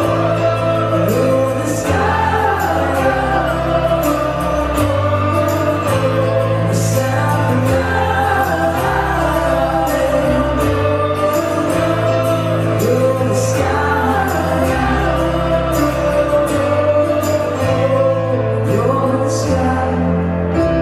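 Live band playing a pop-rock song with singing over a bass line that moves to a new note every couple of seconds.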